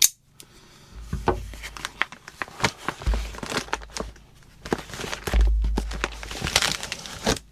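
Plastic MRE ration packets being pulled out of the opened bag and set down on a table: crinkling plastic with a run of sharp clicks and knocks, and a few dull low thumps.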